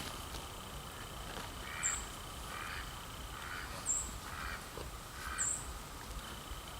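Birds calling: a run of short, harsh calls about once a second, with a few brief, very high chirps in between.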